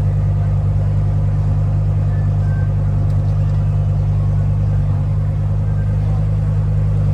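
Car engine and drivetrain running at a steady low drone, the pitch holding even with no revving.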